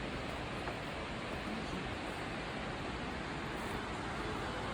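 A 25-metre waterfall pouring down: a steady, even rush of falling water.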